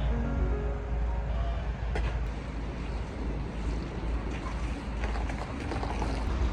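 Local train running, a steady low rumble with a few faint knocks, after background music fades out at the start.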